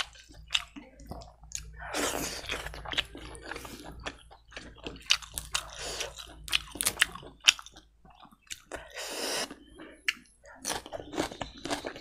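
Close-up chewing of boiled fatty pork and rice, with wet mouth smacks and sharp clicks coming in irregular bursts.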